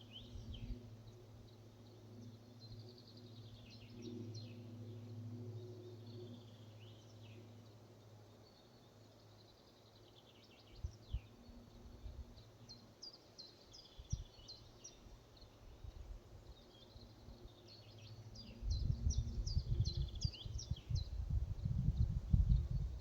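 Forest ambience of small songbirds chirping and calling, with busier chirping near the end. A faint low drone runs under the first half. Irregular low rumbling noise comes in for the last few seconds.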